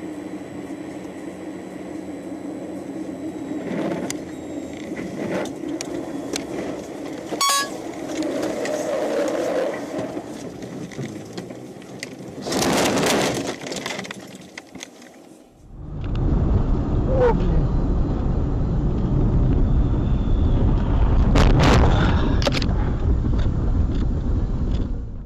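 Dashcam recording of vehicles on the road: steady engine and road noise, with a sharp knock about seven seconds in and a loud rushing burst around thirteen seconds. After a cut, a heavier low rumble follows, with a couple of sharp knocks around twenty-one seconds.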